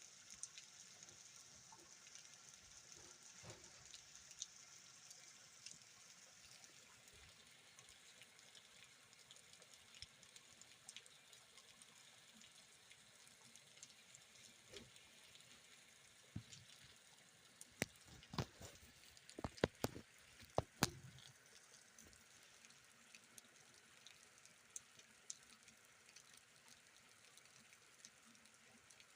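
Light rain, faint, with scattered drops tapping and dripping; a short run of louder taps about two-thirds of the way through.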